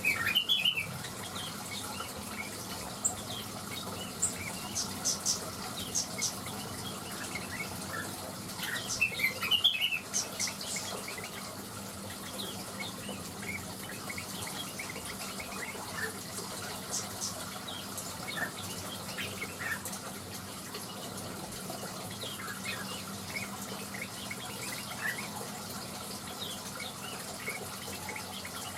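Blue-winged leafbird (cucak wilis) calling in short, scattered high chirps and twitters, with louder flurries about a second in and again around ten seconds, over a steady rushing hiss.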